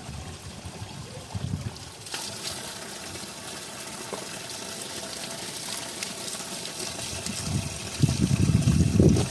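Water running steadily from a mountain spring, with louder, irregular low rushing noise near the end.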